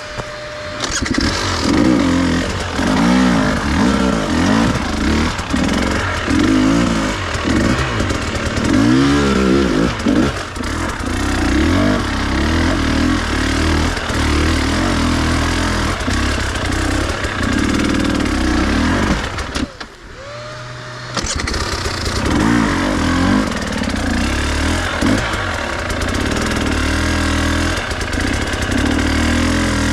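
Enduro dirt bike engine revving up and down in short bursts while riding off-road. About twenty seconds in the engine cuts out briefly, the electric starter whirs, and it runs and revs again.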